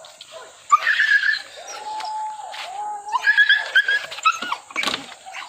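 Pack of village hunting dogs baying and yelping on a wild boar chase: long drawn-out bays that rise and fall, mixed with two bursts of high, quick yelps about a second in and past the middle.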